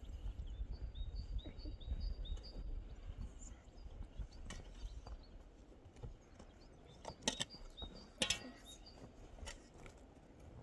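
A small bird chirping in a quick run of short, high notes during the first few seconds, over a low rumbling background noise, followed by a few sharp clicks later on.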